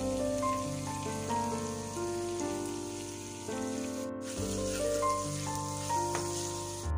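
Chopped vegetables sizzling in hot oil in a wok as they are stir-fried, with background music of held notes underneath. The sizzle breaks off briefly about four seconds in and stops at the end.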